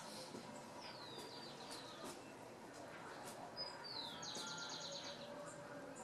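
Birds chirping faintly over steady background noise: a few high falling chirps about a second in, and a quick trill of short high notes a little before the end.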